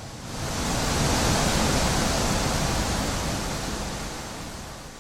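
A strong gust of wind, a loud rushing noise that builds within the first second, holds, then slowly dies away.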